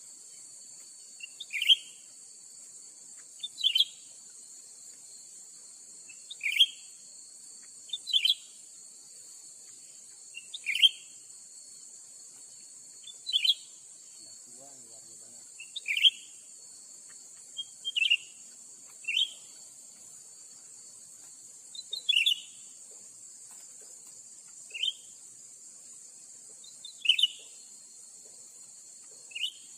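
Short sharp bird chirps, most likely cucak ranting calls, repeated every two to three seconds at a fairly even pace. Under them runs a steady high insect drone.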